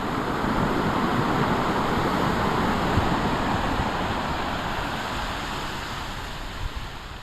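A large wave breaking and rushing up the shore, a swelling wash of surf that peaks about a second or two in and slowly dies away, with wind on the microphone.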